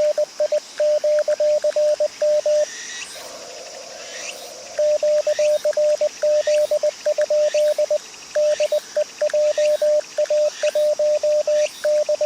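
Morse code from an HF transceiver: a steady tone of about 600 Hz keyed in quick dots and dashes. About three seconds in, the keying pauses for around two seconds and only narrow-filtered receiver hiss is heard, then the code resumes.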